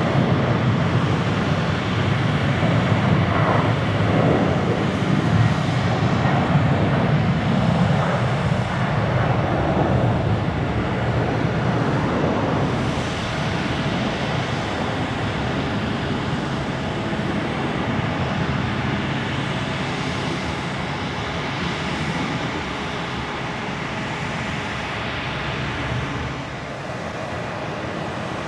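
Boeing 767-300ER airliner's twin jet engines at takeoff thrust: a loud, steady rumble that slowly fades as the aircraft climbs away.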